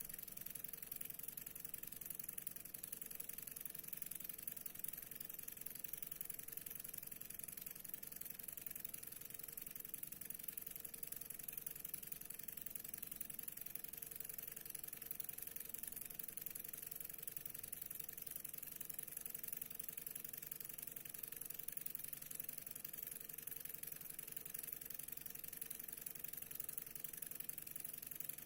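Stirling engine running smoothly and steadily, a faint, even mechanical sound.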